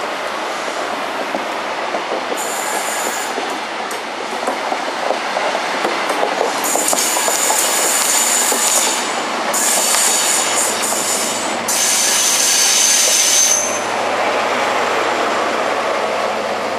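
First Great Western High Speed Train's Mark 3 coaches rolling past on curved track, with high-pitched wheel squeals in several stretches of a second or two each, loudest about halfway through. Its Class 43 power car goes by near the end, adding a low steady hum.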